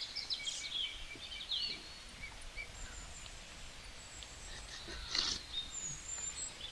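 Birds chirping and calling in the background, thin high-pitched calls coming and going, with a brief noise about five seconds in.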